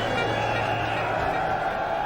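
Steady din of a cricket stadium crowd.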